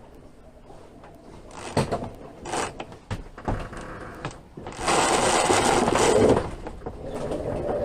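Deck gear being worked by hand aboard a sailboat: a few sharp knocks, then a loud rattling rush lasting about a second and a half, about five seconds in.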